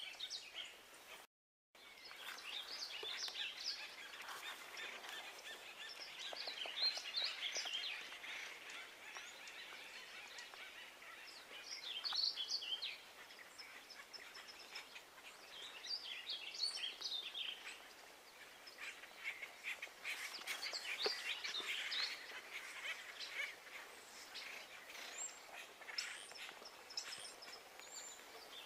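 Birds calling and chirping, in scattered bursts of short, high calls.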